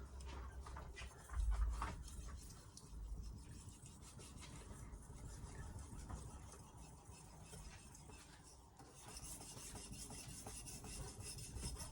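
Carbon-steel knife blade being stroked across a splash-and-go whetstone: a faint, repeated scraping rub, with a low bump about a second and a half in.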